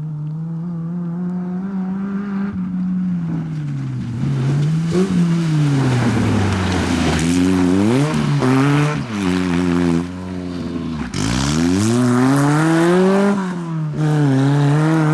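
Off-road rally car's engine revving hard under racing load, getting louder over the first few seconds. Its pitch climbs and falls repeatedly through gear changes and throttle lifts, with deep drops about 4, 8 and 11 seconds in.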